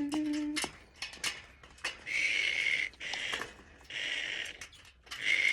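Pet parrots screeching in alarm, a racket of four harsh calls each lasting up to about a second, with scattered light clicks and knocks of metal cage parts between them.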